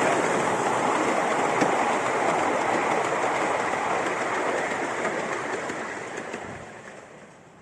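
Steam train going by with a steady rushing noise that fades away over the last two seconds.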